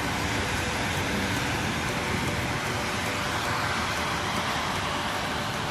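Steady rain falling, an even dense hiss.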